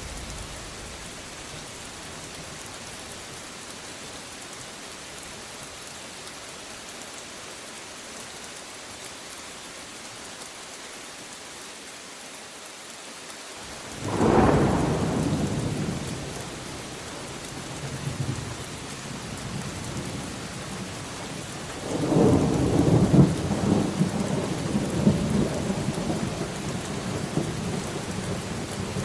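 Steady rain falling, with thunder. A sudden crack of thunder about halfway through fades out over a few seconds, and a longer rolling peal with several peaks follows near the end.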